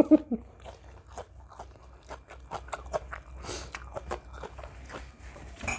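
Close-up chewing and crunching of mouthfuls of spicy Thai papaya-and-seafood salad, many short irregular crunches and clicks.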